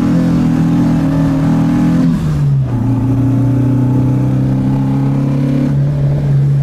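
Alfa Romeo GT 1600 Junior's twin-cam four-cylinder engine pulling, heard from inside the cabin; the revs hold, drop about two seconds in as with an upshift, then run steady at a lower pitch.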